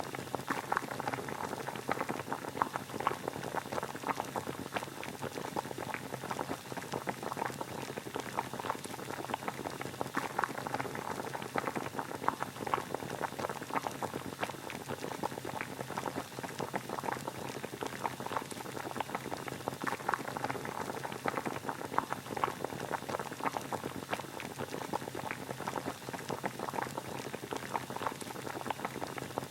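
Water boiling: a steady, dense bubbling and crackling.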